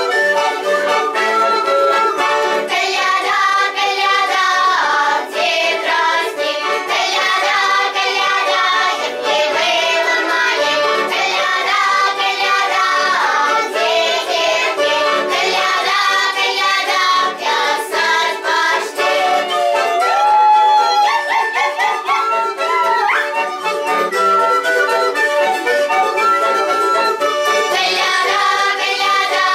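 Children's folk group singing a Russian koliada carol together, with instrumental accompaniment and a steady rhythmic beat.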